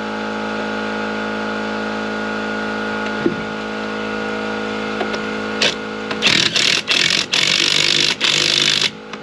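A motor runs with a steady, even hum. About six seconds in, loud hissing bursts start and stop several times.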